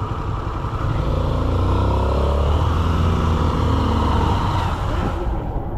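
Motorcycle engine running at low revs, the sound filling out about a second in and its pitch drifting gently.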